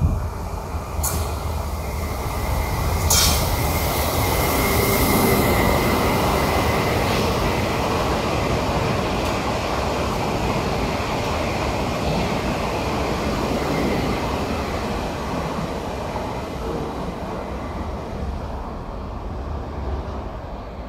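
Koleje Mazowieckie electric commuter train running along the station platform: a steady rumble of wheels on rail with a thin wheel squeal over the first few seconds and two sharp clacks about one and three seconds in, the rumble easing off near the end.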